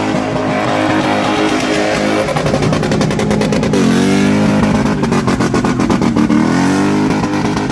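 Car engine revving hard while the car is spun, its pitch dipping and climbing again about four seconds in, with rapid pulsing in the engine note in the middle stretch.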